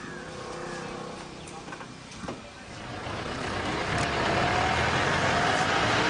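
A motor engine running, its rumble swelling and growing much louder about three seconds in, then staying steady.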